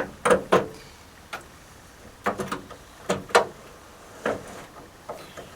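Irregular short clunks and clicks of a metal window regulator being worked and fitted inside a van door, some in quick pairs.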